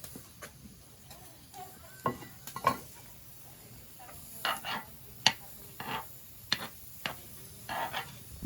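Kitchen utensils clinking and scraping against pots and dishes in a string of short, irregular knocks, most of them in the second half.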